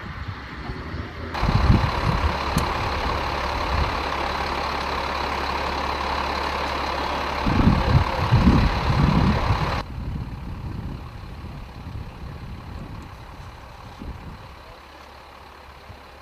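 Heavy military truck's diesel engine idling with a steady low hum, and louder low rumbles about two seconds in and again around eight seconds. About ten seconds in the sound drops abruptly to a quieter hum.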